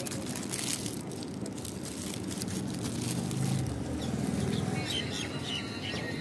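Steady background hum and clatter with a few short bird chirps near the end.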